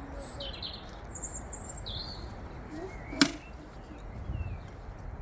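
Small birds chirping in short high calls during the first two seconds, over a low outdoor rumble. About three seconds in comes a single sharp click or snap.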